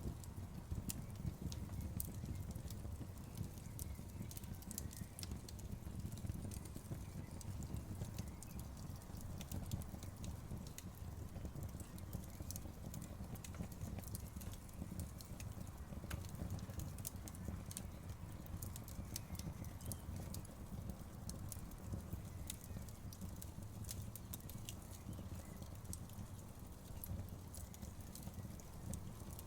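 Campfire crackling: a steady low rumble of burning wood with frequent sharp snaps and pops scattered irregularly throughout.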